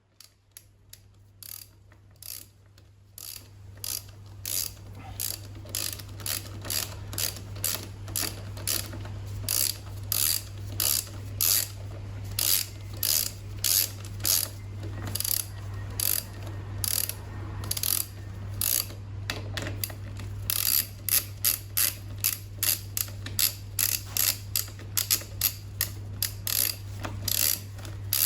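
Rhythmic mechanical clicking, like a ratchet, at about two or three clicks a second, growing louder over the first few seconds, over a steady low hum.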